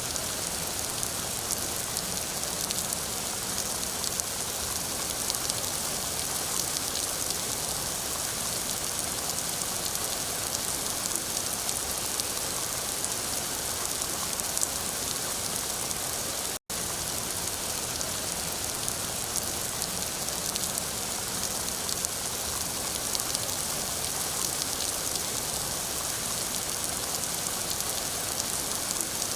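Steady rain falling: an even hiss with fine patter of drops. The sound drops out completely for an instant about two-thirds of the way through.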